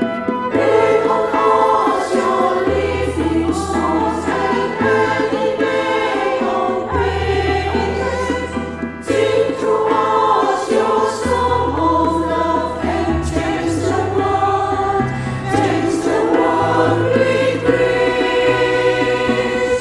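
Women's choir of sopranos and altos singing a worship song in parts, over instrumental accompaniment with long held bass notes.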